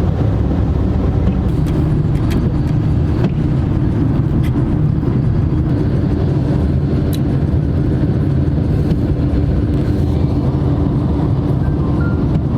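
Steady drone of a car on the move, engine and road noise heard from inside the cabin, with a few small clicks.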